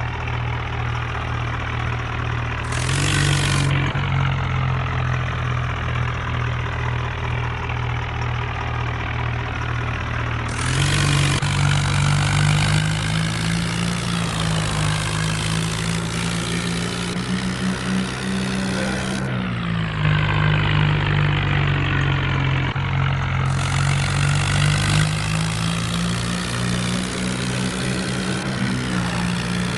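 Kubota tractor's diesel engine running steadily, its engine note stepping up a few seconds in and again about ten seconds in, then dipping and rising once more near the middle.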